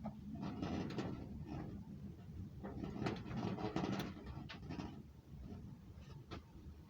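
Small tools and metal parts being handled on a workbench: scraping and rustling with light clicks and knocks, in two bunches, then a single sharp click near the end.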